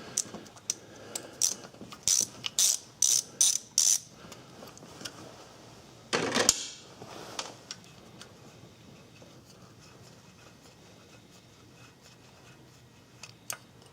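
Ratchet wrench with an E8 external Torx socket clicking as it backs out the single bolt holding the camshaft sensor, in a quick run of clicks over the first few seconds. A short rattle follows about six seconds in.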